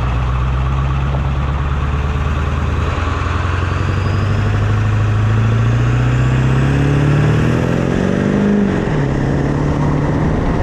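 Ford 7.3 Powerstroke V8 turbo diesel pulling away under load through a 4-inch MBRP exhaust, engine pitch climbing steadily, then dropping at a gear change about nine seconds in. A faint rising turbo whistle rides above the engine as it speeds up.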